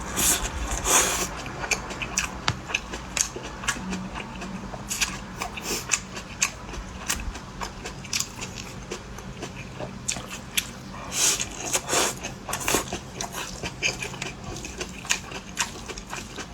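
Close-miked eating: a person biting and chewing crunchy food, with a string of irregular crisp crackles and heavier crunches about a second in and again around eleven to thirteen seconds in, over a faint steady low hum.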